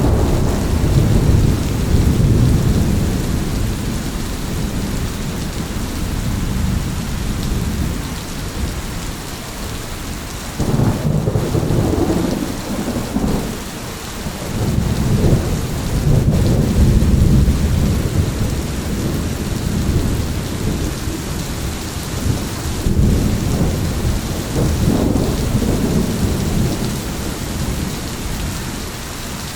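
Steady rain with thunder rumbling again and again, rolling swells of low rumble that build and fade several times over the rain's even hiss.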